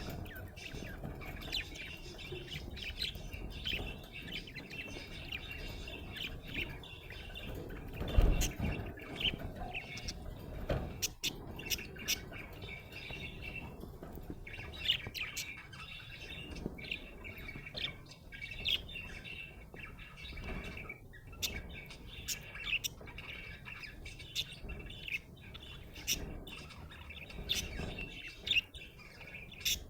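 Budgie (budgerigar) chirping and chattering continuously in quick, high chirps, with a loud thump about eight seconds in and a smaller knock a few seconds later.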